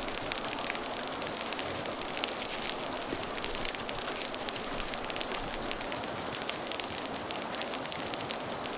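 Steady rain mixed with a fire crackling: an even hiss scattered with many small, irregular pops.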